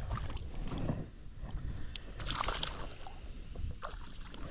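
River water sloshing and splashing, with a low wind rumble on the microphone. There is a louder splash about two and a half seconds in.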